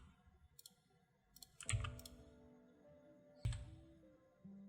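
A few quiet computer keyboard key presses and mouse clicks, with two heavier knocks, one about two seconds in and one about three and a half seconds in. Each knock is followed by a faint held tone.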